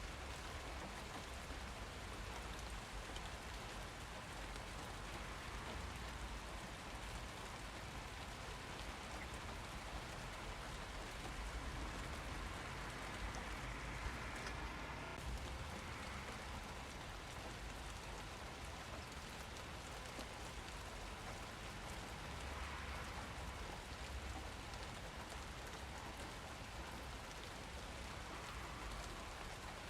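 Steady rain falling and pattering on surfaces, with an even hiss and scattered single drops.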